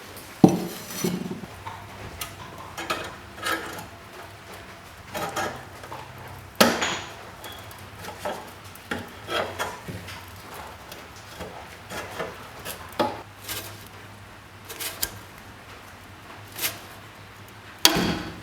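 Irregular clinks, knocks and light clatter of small metal parts and tools being handled and set down while working on a vintage slide projector, over a faint steady low hum.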